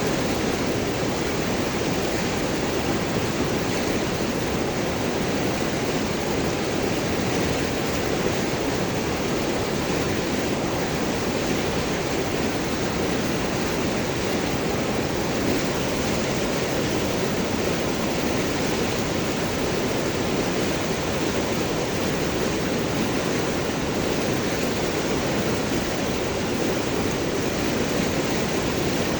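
River water rushing and gurgling over large rocks in a steady, even rush.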